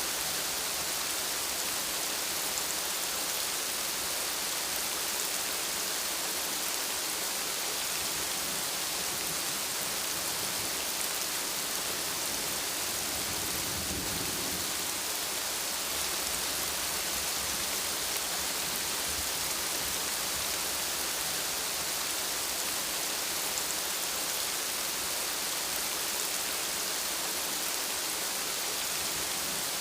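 Steady rain, with a soft low rumble of thunder about halfway through.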